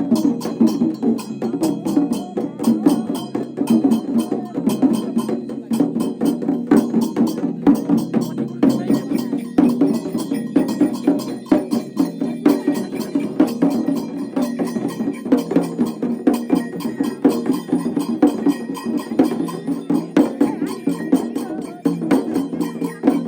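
Traditional percussion music: fast, steady beating that keeps up without a break.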